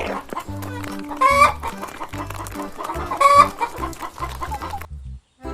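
Chicken clucking with two loud squawks about two seconds apart, over background music with a steady bass line; the sound cuts out briefly near the end.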